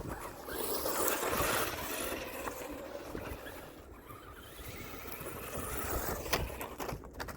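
Wltoys 124006 radio-controlled desert truck driving over dirt: its electric motor running and its tyres scraping the ground, louder in surges as it speeds up and slows.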